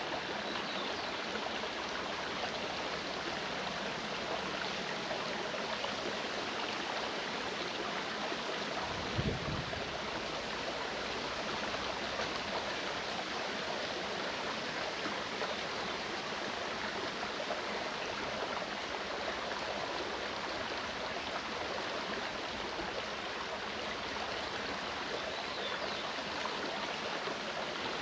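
Clear mountain stream running over rocks: a steady rush of water throughout, with one brief low thump about a third of the way in.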